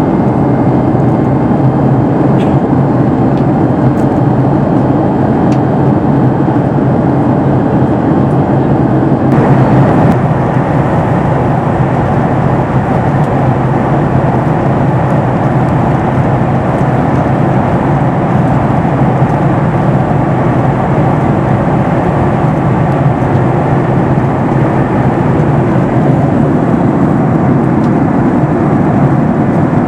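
Steady engine and airflow noise of a Boeing 737 MAX 8 with CFM LEAP-1B engines, heard inside the cabin in flight. About nine seconds in the sound changes, with less low rumble and more hiss.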